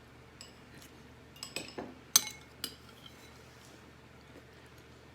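Cutlery clinking against dishes a handful of times, the loudest a sharp ringing clink about two seconds in.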